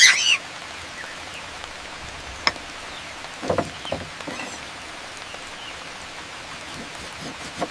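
Steady rain falling, an even hiss with a few small knocks around the middle; a short loud sound comes right at the start.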